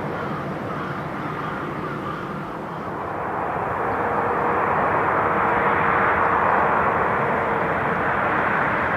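Jet airliner engines running, a steady noisy rush with a faint held tone, growing louder from about three seconds in and peaking around six seconds as the aircraft draws nearer.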